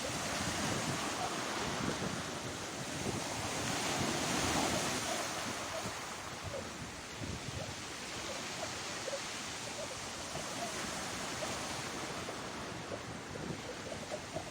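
Sea waves breaking and washing on the shore, a steady rush that swells about four seconds in and then eases, with wind on the microphone.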